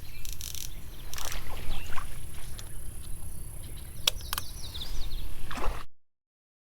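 Water splashing and handling knocks as a caught catfish is set in the shallows at the bank, with a steady low rumble of wind on the microphone. The sound cuts off abruptly near the end.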